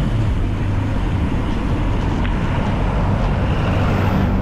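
Steady city street traffic heard from a moving ride: vehicles running along the road, with wind buffeting the microphone.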